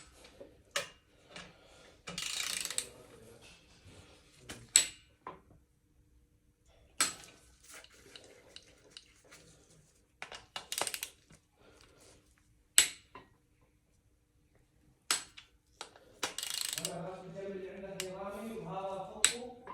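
Metal tools and engine parts clinking and knocking as they are handled during engine assembly: a dozen or so separate sharp clanks, spread out, with a couple of short scraping stretches.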